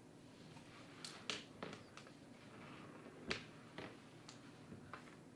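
Scattered light clicks and taps, about seven in all and irregular, the loudest a sharper knock with a low thump a little past three seconds in, over a faint steady hum.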